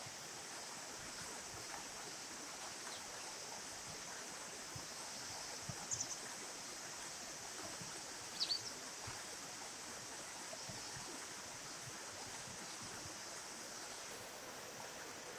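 Flowing river water, with a steady high-pitched insect chorus over it. Two short high bird chirps come about six and eight and a half seconds in.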